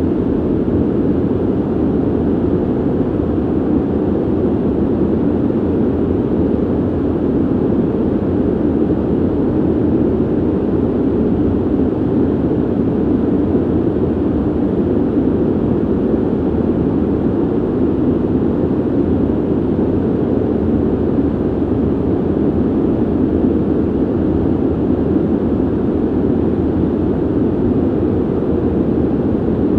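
Steady, deep rushing of air from a ventilation system, even and unchanging, with little hiss on top.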